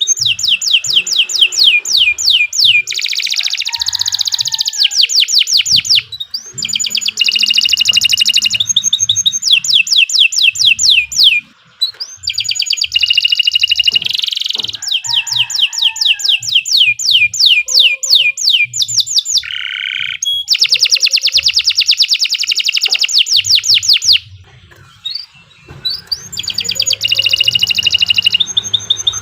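Domestic canary singing long phrases of rapid, evenly repeated trill notes. The song breaks off briefly about twelve seconds in and again for a couple of seconds near twenty-four seconds.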